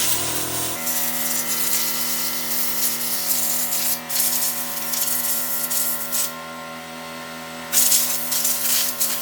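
Pressure washer rinsing a sandy dirt bike: its motor and pump run at a steady pitch, with the water spray hissing loudly at the start and again near the end.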